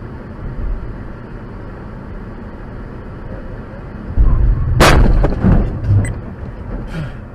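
Car collision heard from inside a vehicle: steady road noise, then about four seconds in a heavy low thud, a sharp crack and about two seconds of crunching knocks, with a few small clicks near the end.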